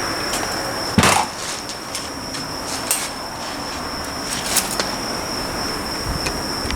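A single sharp knock of metal on metal about a second in, then a few lighter taps and clicks of tools on differential parts, over a steady high-pitched whine.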